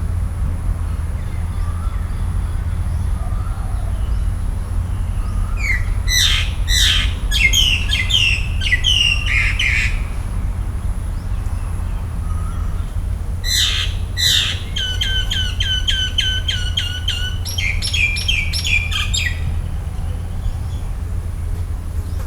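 A bird singing two bouts of rapid, sharp, downward-sweeping notes, the first about six seconds in and the second about thirteen seconds in, over a steady low rumble.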